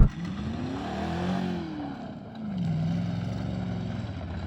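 BMW 735i's V8 engine running with its oil drained, the revs rising and falling and then holding steady. It is oil-starved and still running.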